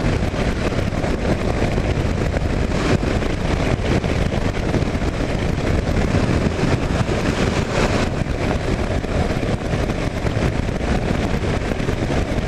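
A 2009 Kawasaki KLR 650's single-cylinder engine running at road speed, mixed with wind rushing over the microphone, steady throughout.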